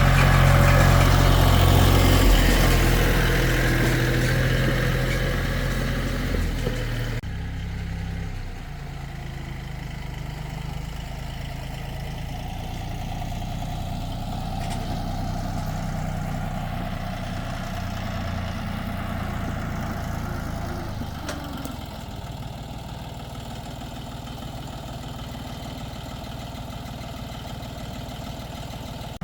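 Tractor engine running, loud and rough for the first several seconds, then cutting abruptly to a quieter, steady run.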